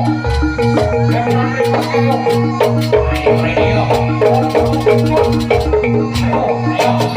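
Jaranan gamelan ensemble music: struck metallophones play a fast, even repeating pattern of notes over a steady low tone, with sharp drum or cymbal strokes throughout.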